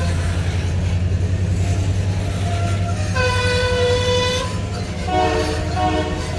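Canadian Pacific train passing with a steady low diesel rumble. The locomotive horn sounds in repeated blasts: one about three seconds in, then a shorter one of different pitch about five seconds in.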